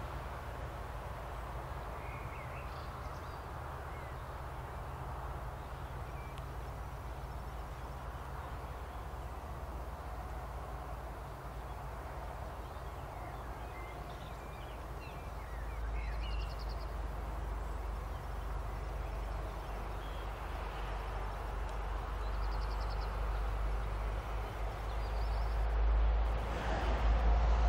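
Freight train hauled by an SNCF Fret Alstom Prima electric locomotive approaching: a low rumble that grows steadily louder over the last ten seconds or so, with a steady hum joining near the end. Birds chirp faintly now and then.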